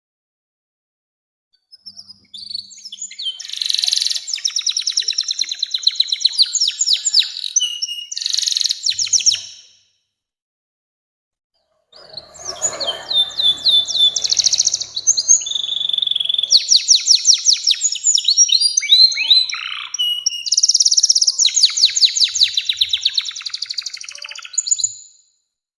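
Domestic canary singing its long rolling song in two stretches: rapid high trills and chirping phrases for about eight seconds, a two-second pause, then a longer run of trills and chirps. A brief rustling noise lies under the song as the second stretch begins.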